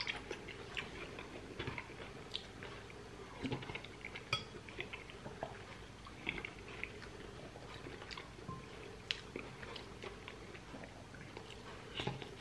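A man chewing pork rib meat and bean soup close to the microphone, with soft, irregular mouth clicks and smacks.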